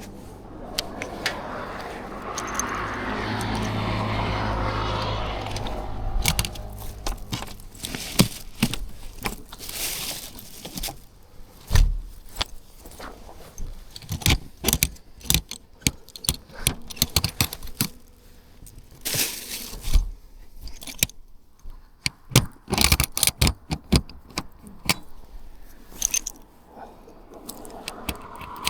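An engine hum for about the first six seconds, then a long run of irregular clicks, clinks and clatters close to the microphone, like keys and small gear being handled.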